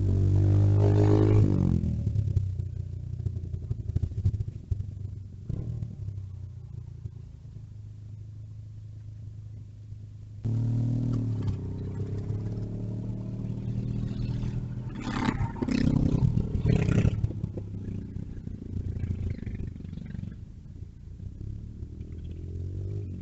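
Mini bike engines running and passing by, their pitch rising and falling as they rev. The sound jumps louder about ten seconds in and swells again around the middle.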